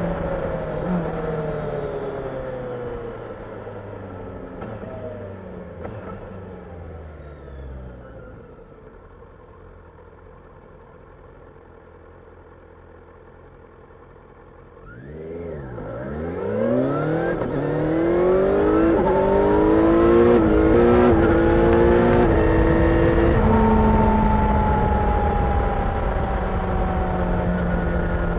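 Kawasaki Ninja 1000SX inline-four engine. It winds down with falling pitch for several seconds and idles quietly for a few seconds. About halfway through it pulls away, revving up through several gear changes, then holds a steady cruise near the end.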